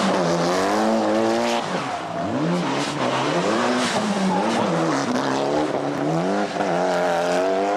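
Rally car engine revving hard, its pitch climbing and dropping several times as the driver accelerates, lifts off and changes gear through a special stage.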